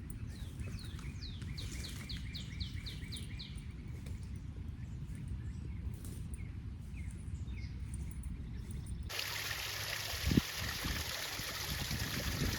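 A songbird sings a quick series of about ten repeated notes early on, over a low rumble. About nine seconds in, a steady rushing hiss sets in suddenly.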